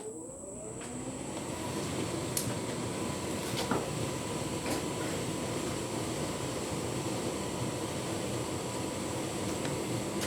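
Tumble dryer starting its cycle with a full load of bedding: the drum motor spins up with a rising whine, then settles into a steady running hum as the drum turns. A few sharp ticks sound over the hum.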